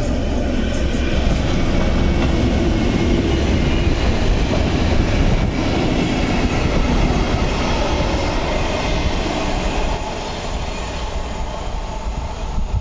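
A works train, a locomotive hauling yellow track-maintenance wagons, passing close by: a steady rumble of wheels on rail with some clatter over the rail joints and a little wheel squeal. It gets somewhat quieter about ten seconds in as the train moves away.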